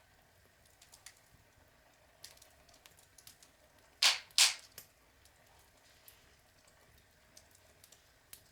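Outdoor log fire crackling: scattered small pops and ticks, with two loud sharp snaps in quick succession about four seconds in.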